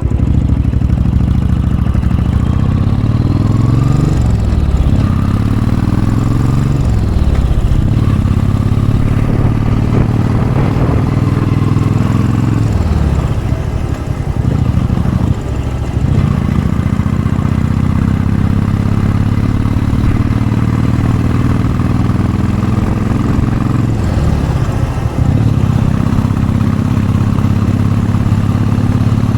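Royal Enfield Bullet 500's single-cylinder four-stroke engine running hard up a steep hill through a baffled Mass Moto Bottiglia exhaust. The revs rise and fall several times, and the engine note dips briefly a few times.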